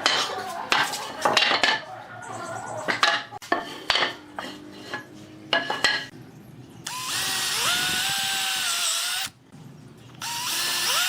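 A series of sharp knocks, then a power drill whirs up to speed with a rising whine and runs for about two seconds. It stops and starts again about a second later.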